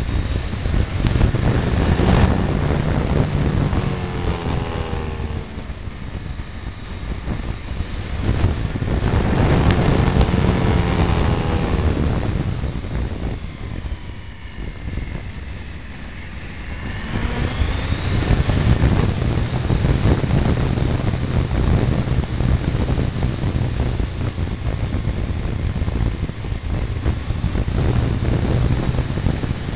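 Triumph Tiger 955i's three-cylinder engine pulling the motorcycle down a twisting road, heard close from a mirror-mounted camera. The revs rise and fall through the bends, drop to a quieter stretch about halfway, then climb again and settle into steady running.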